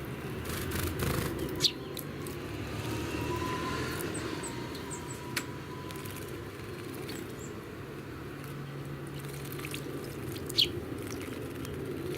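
Small songbirds giving short, sharp chirps: two louder ones about a second and a half in and near the end, with a few faint high notes between, over a steady low background rumble.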